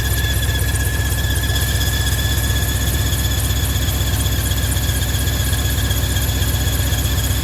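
1995 Chevy HD3500 dump truck's engine idling steadily, a low even rumble with a constant high-pitched whine running over it.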